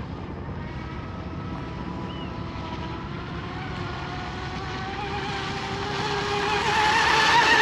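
Electric RC hydroplane on a full-throttle pass: its 3660 brushless motor and propeller give a steady whine that rises slightly in pitch and grows louder toward the end as the boat comes closer.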